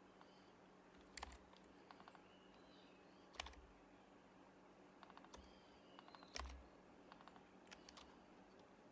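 Typing on an HHKB Professional Hybrid Type-S keyboard with silenced Topre switches: quiet keystrokes in short, irregular runs. Two heavier strokes with a dull thump come about a third of the way in and again about two-thirds in.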